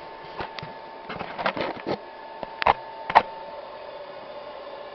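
Steady whine of a hairdryer blowing air into a small propane-and-charcoal furnace, broken by a few scrapes and two sharp clicks as the burner is relit; the whine fades about three and a half seconds in.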